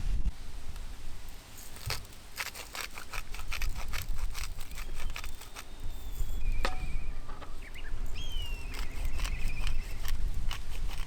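Wood campfire crackling, with many sharp irregular pops and snaps over a low steady rumble of wind. A bird chirps briefly a couple of times in the middle and later part.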